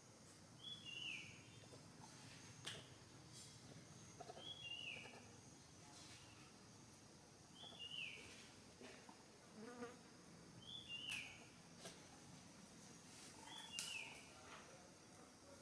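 Faint forest ambience: a bird repeats a short two-note call, the second note falling, about every three seconds, over a steady high insect hum, with a few scattered clicks.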